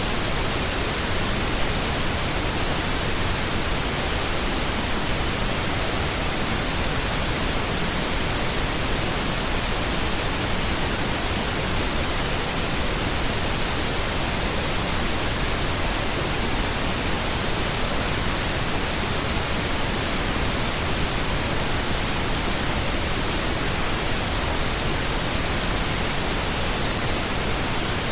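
Steady synthetic pink noise: an even, unchanging hiss spread across all pitches, with no rhythm or variation.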